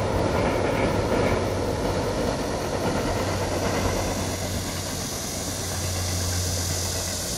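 A passing train running over the track, its rolling rumble easing after about three seconds and leaving a steady low engine hum.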